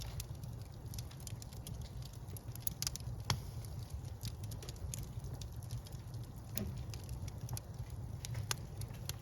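Wood fire burning in a fireplace, crackling with irregular sharp pops and snaps over a steady low rumble of the flames; the loudest pop comes about three seconds in.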